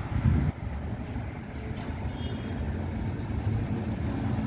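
Street traffic noise: a steady low rumble of passing vehicles, with a brief louder burst shortly after the start.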